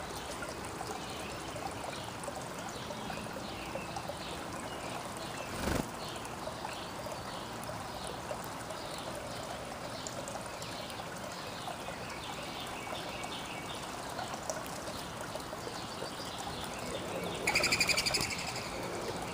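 Backyard songbirds chirping again and again over a steady rushing hiss, with a single knock about six seconds in and one louder, harsher bird call near the end.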